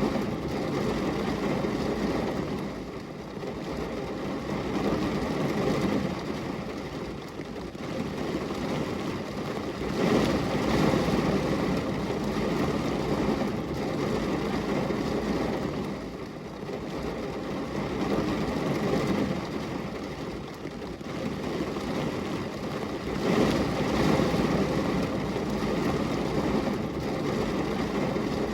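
Rain falling on a window pane, a steady rushing hiss with a heavy low rumble that swells and eases every several seconds.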